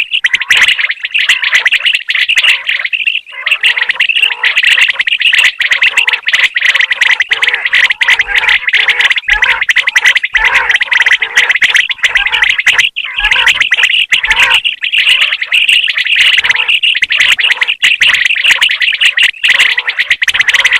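Common quail calling: a dense, continuous run of rapid chirping notes with many clicks, without a break.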